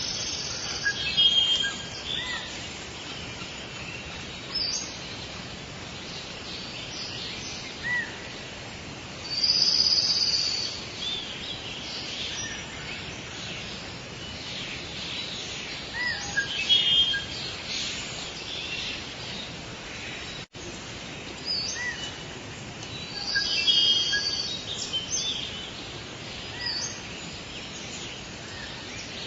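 Forest birdsong ambience: assorted birds calling and chirping in short, repeated phrases over a steady background hiss, with a few louder bursts of calls. The sound cuts out for an instant about two-thirds of the way through.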